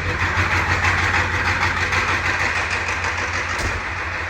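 Ford 7.3 L IDI V8 diesel engine running just after a cold start helped by ether, with steady, rapid diesel clatter. The level eases slightly near the end.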